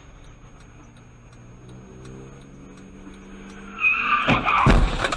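Car engine running steadily, then tyres screeching just before four seconds in, followed within half a second by the heavy thuds of a crash impact.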